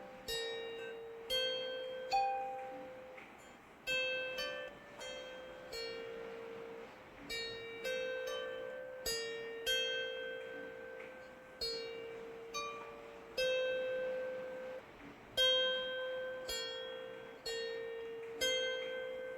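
Slow, gentle melody of plucked string notes, about one a second, each ringing and fading away, over a faint steady hiss of rain.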